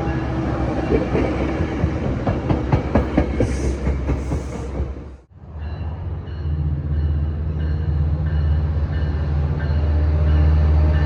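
A train rolling past, its wheels clicking over the rail joints. After an abrupt break a little past halfway, a diesel locomotive's engine gives a steady low drone.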